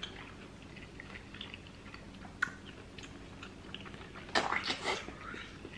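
Close-miked eating sounds: quiet chewing and small wet mouth clicks, with a sharp click about two and a half seconds in and a louder cluster of mouth noises about four and a half seconds in.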